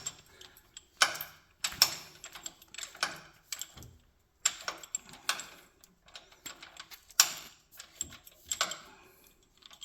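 Irregular metallic clicks and clanks of a tractor's three-point hitch linkage and pins being handled and adjusted.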